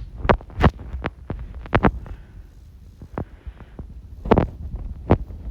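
A string of irregular sharp knocks and thuds, about ten of them, several loud ones in the first two seconds and another near the end, over a steady low hum.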